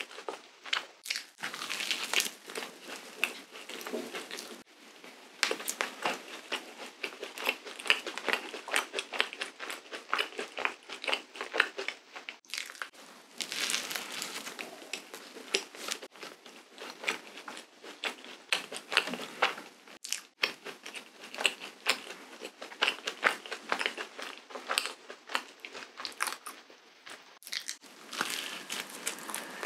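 Close-miked biting and chewing of a waffle: crunching mouthfuls with many small crisp clicks, broken by a few short pauses.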